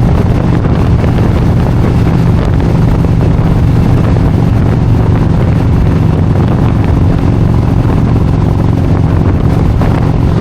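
Motorcycle engine running steadily at cruising speed, with loud wind noise buffeting the microphone.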